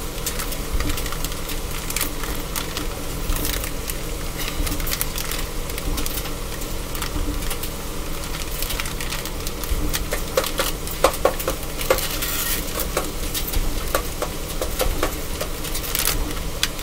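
Food sizzling in a frying pan on the stove, with the crinkling of a plastic bag of shredded cheese being worked open. The crinkles and crackles come thickest past the middle.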